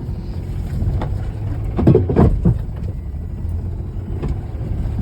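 Car engine running hard as the car spins a reverse donut, with a loud surge about two seconds in.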